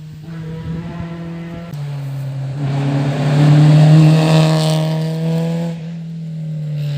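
Rally car passing at speed under hard acceleration: the engine note and road noise build to a peak about four seconds in, then fade away as it goes by.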